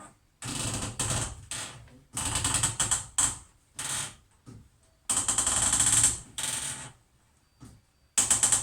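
Plastic threaded hose coupling being screwed onto a washing machine by hand, hand-tight. It comes as about six bursts of rapid ratcheting clicks, the longest about five seconds in.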